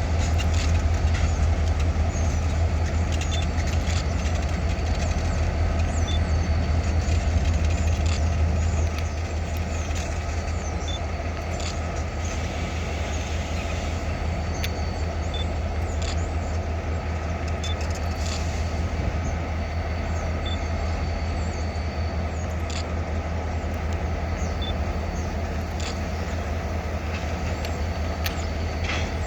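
EMD GP38-2 and GP40-2 diesel locomotives, V16 645 two-stroke engines, running with a steady low drone that drops a step quieter about nine seconds in. Scattered light clicks and clanks are heard over it.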